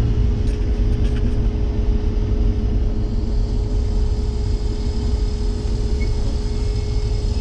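Farm harvest machine engine running steadily, heard inside the cab: a low rumble with a constant whine.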